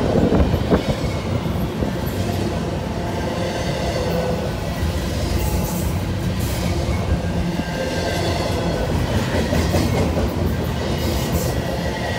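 Double-stack intermodal freight train rolling past close by: a steady rumble and rattle of loaded well cars, with scattered clicks of wheels over the rail joints.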